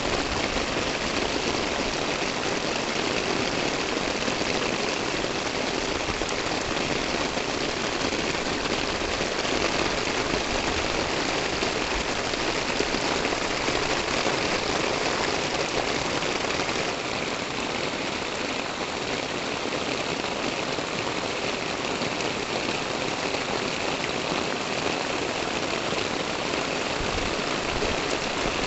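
Steady rain falling on roofs and pavement, an even hiss without a break that turns a little softer just past halfway.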